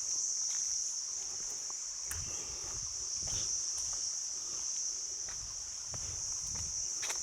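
Insects in the forest keep up a steady, high-pitched buzzing drone, with scattered footsteps and light knocks on the trail.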